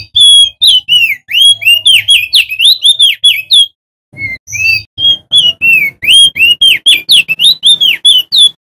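Male opior jambul (crested white-eye) singing loudly: rapid strings of slurred, whistled notes, about four or five a second, in two runs with a short break about four seconds in.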